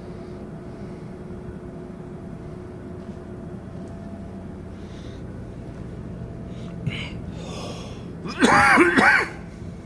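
A steady machinery hum with a few fixed tones, then two loud, short calls near the end, each rising and falling in pitch.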